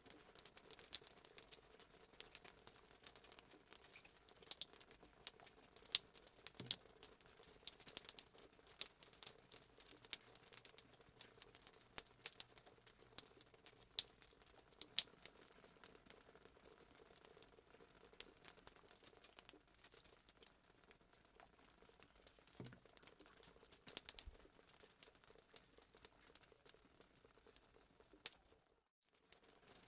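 Faint fireplace sound effect: a wood fire crackling, with many small irregular pops and snaps over a soft hiss. It drops out for a moment near the end.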